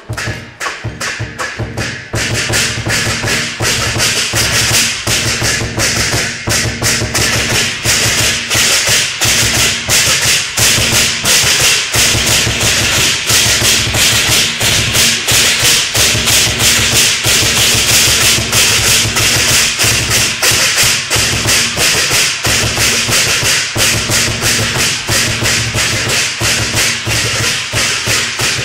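Loud percussion music with a fast, even beat of about four or five strikes a second and a bright, cymbal-like wash over it. It swells up about two seconds in and then keeps going steadily.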